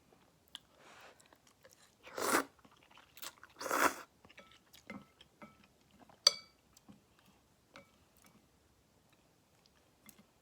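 Close-miked eating of egg drop tantanmen noodles: two loud noisy mouthfuls about two and four seconds in, scattered soft mouth clicks, and a sharp ringing clink just after six seconds.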